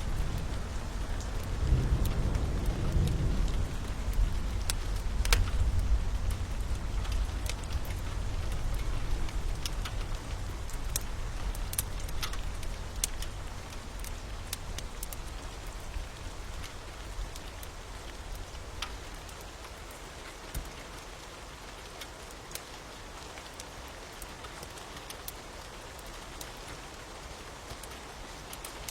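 Steady rain with a low rumble of thunder that is strongest in the first few seconds and fades away by about the middle, over scattered sharp crackles of a wood fire.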